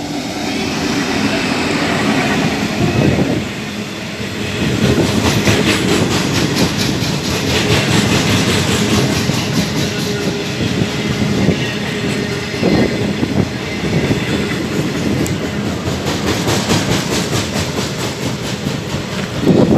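A diesel freight locomotive passes with its engine running, then a long train of wagons loaded with rails rolls by. The wheels beat a steady clickety-clack over the rail joints.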